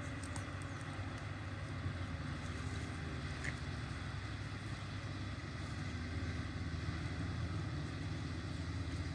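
Off-road vehicle engines running as the 4x4s drive through shallow river water, heard from far off as a steady low drone.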